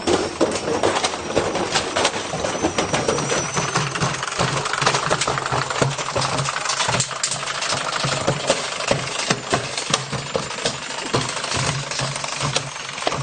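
Washing machine spinning hard with a heavy load in its drum, badly out of balance: a fast, unbroken stream of knocks and rattles over a steady low motor hum.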